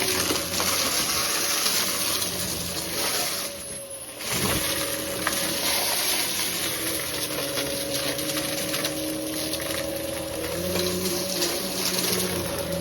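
Vacuum cleaner motor running steadily with a strong hiss and a steady whine. The sound drops away briefly about four seconds in, then comes straight back.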